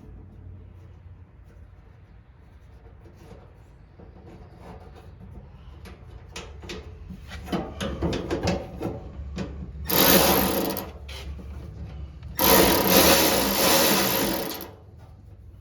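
Tool work on a part: a run of light clicks and taps, then two loud rasping bursts, one about a second long and one about two seconds long, over a low steady hum.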